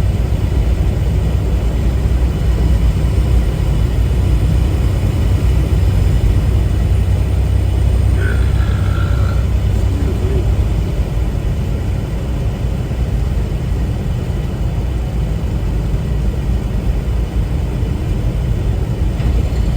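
Tractor-trailer cab interior while driving: a steady low engine drone with road noise. A brief high tone sounds about eight seconds in.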